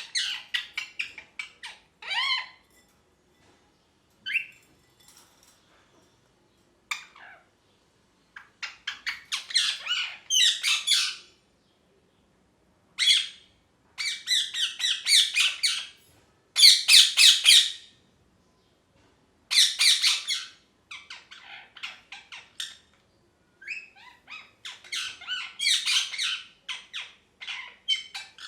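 Ringneck parakeet chattering and squawking in quick runs of high chirps. The bouts last a second or two each, with short pauses between them.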